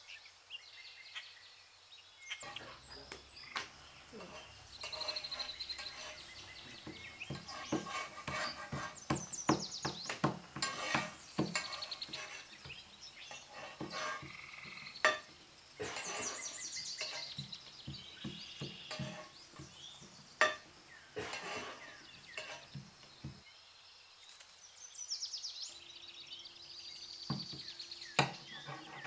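A spatula tapping, clinking and scraping on a flat griddle as porottas are turned, a quick run of sharp knocks, with birds chirping high in the background.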